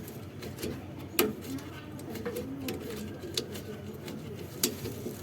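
Pigeons cooing in low, short calls, with three sharp clicks, the first about a second in being the loudest.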